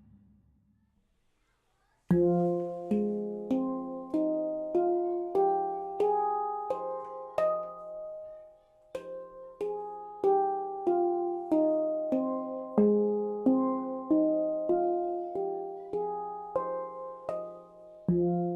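Baopan handpan tuned to F Magic Voyage (F, G#, C, D#, F, G, G#, C, D#), played by hand one ringing note at a time. After about two seconds of silence, the notes come roughly twice a second in stepwise runs that climb and fall, with a brief pause about halfway through.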